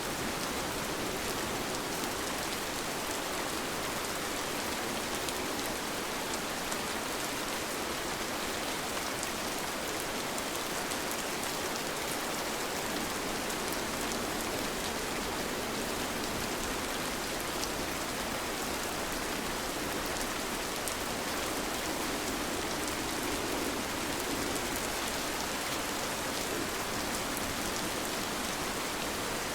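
Steady rain falling, an even hiss of many drops with faint individual drop ticks, with no thunder.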